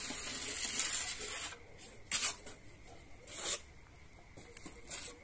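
Scraping and rubbing noises: a rough hiss for about a second and a half, then a few short rasping strokes.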